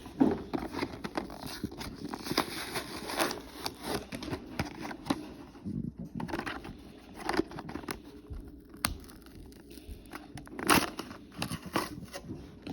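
Toy diecast car's blister packaging, a plastic shell on a cardboard backing card, being crinkled, pried and torn open by hand. It makes an irregular stream of crackles and small snaps, with several louder sharp snaps scattered through it.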